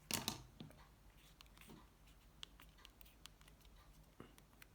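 Near silence: room tone with a short soft rustle at the start and a few faint scattered clicks.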